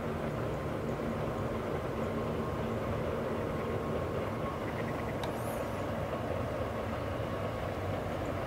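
Steady distant rumble of a train running along a hillside railway track, with a low hum. A brief high chirp sounds about five seconds in.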